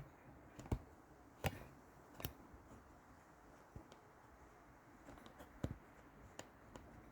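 A handful of light, sharp clicks and taps at uneven intervals, the loudest near the start and about a second and a half in, over a quiet background: small handling noises rather than the engine cranking.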